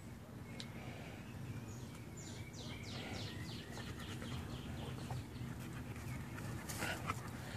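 Outdoor background with a steady low hum. About two seconds in, a bird gives a quick trill of repeated high, falling notes lasting about a second. A brief rustle comes near the end.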